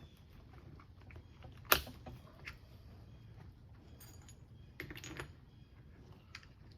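Small metal garden-tractor transaxle parts clinking and clicking as they are handled and fitted onto a shaft. There is one sharp click about a second and a half in, then a few lighter clinks and a brief clatter past the middle.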